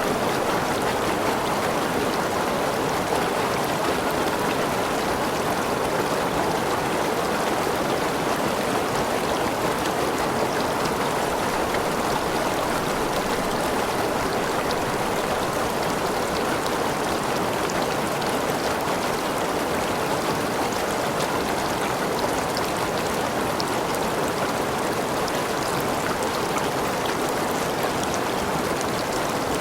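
Waterfall splashing and rushing steadily, with faint drips and spatters mixed in.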